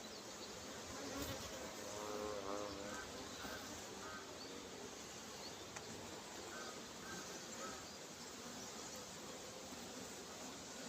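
Honeybees buzzing around an open hive's brood box during an inspection: a steady hum of many bees, with drones among them.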